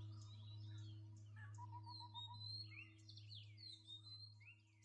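Faint birds chirping, with short quick downward-sweeping notes and a brief run of rapid pips, over a low steady hum.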